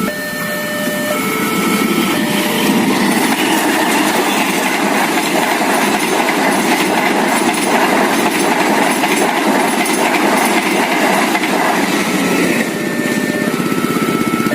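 A train passing through a railway level crossing: a loud, steady rush of wheels on rail with clickety-clack, building about a second in and easing off near the end. The crossing's electronic alarm, a repeating stepped two-tone chime in the common pattern, is heard under it at the start and again once the train has gone by.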